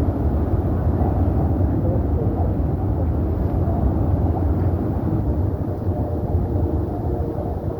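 Steady low rumble of riding a bicycle on a paved path, with wind and rolling noise and the traffic of a nearby freeway mixed in. A faint steady hum joins near the end.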